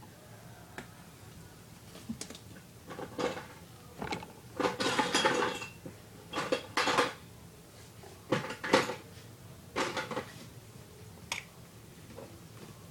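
Small plastic pieces of an Our Generation ice cream truck playset clattering and clicking as they are handled and set out. The sound comes as a string of short clatters, the longest and loudest about five seconds in, then a few scattered clicks.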